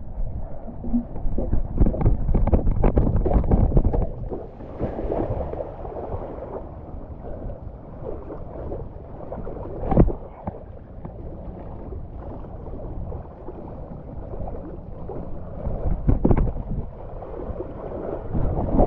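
Wind buffeting the microphone over splashing water from skimboard runs, with a sharp slap about ten seconds in and another near the end.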